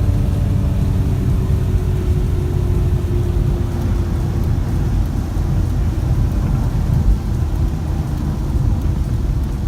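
2006 BMW M3 E46's S54 straight-six and road noise heard inside the cabin while cruising: a steady low drone with a faint engine tone that fades away about four seconds in.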